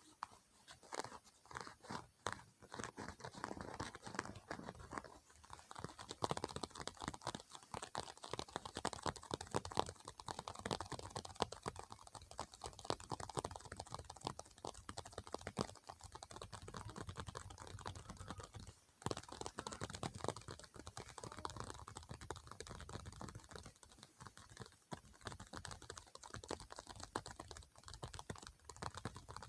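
ASMR tapping and clicking on objects: a rapid, dense run of small taps and clicks that goes on without a break.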